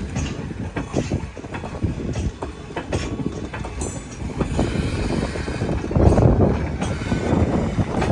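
Express passenger train rolling past, its wheels clattering over rail joints in a stream of irregular clicks and knocks over a steady rumble. It gets louder about six seconds in.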